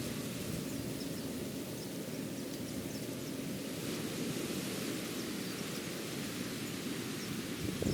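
Steady rushing noise of ocean surf, with a louder low rumble right at the end.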